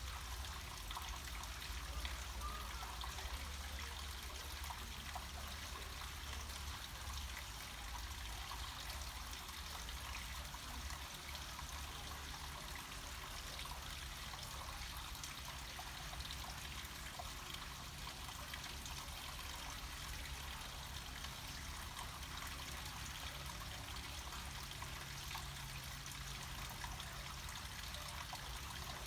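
Water flowing down a small mountain cascade: a steady trickling and splashing rush with a low rumble underneath.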